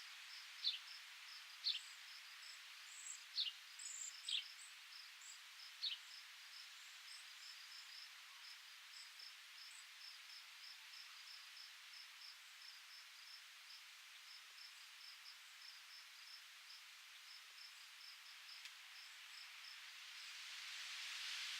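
Quiet outdoor nature ambience: a bird gives short falling calls about five times in the first six seconds, over a steady high-pitched chirping, about three or four chirps a second, and a soft hiss. Wind begins to rise near the end.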